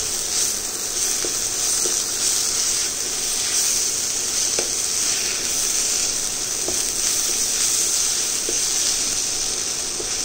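Sliced onions and ginger garlic paste frying in oil in a nonstick pan, a steady sizzle as a wooden spatula stirs them, with a few light spatula knocks against the pan.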